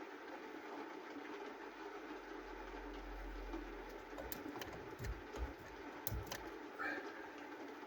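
Distant thunder rumbling low over a steady hiss, with a few dull knocks and sharp clicks about five to six seconds in.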